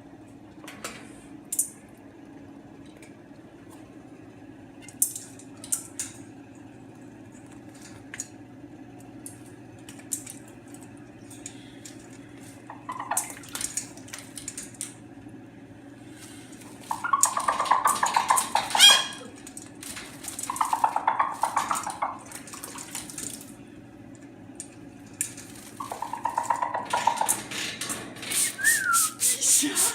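Water running and splashing in bursts, with scattered light clinks and taps over a steady low hum.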